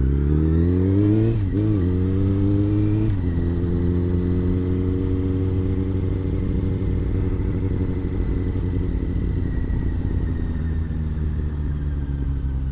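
Honda CBR600's inline-four engine accelerating, revs rising, briefly dipping about a second and a half in, rising again, then dropping sharply about three seconds in at a gear change. After that it runs at steady revs that ease off slowly near the end.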